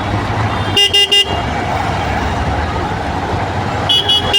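Vehicle horns honking in a traffic jam over a steady rumble of engines: three quick toots about a second in, then more short beeps near the end.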